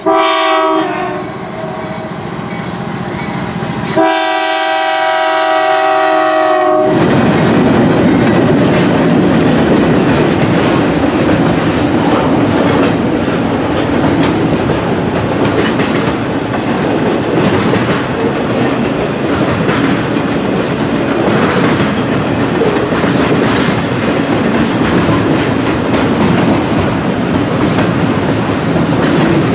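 A CN freight locomotive's multi-tone air horn: one blast cuts off about a second in, and a second blast of nearly three seconds follows. Then the intermodal train passes close by, a loud steady rumble of locomotives and wheels with rail clatter.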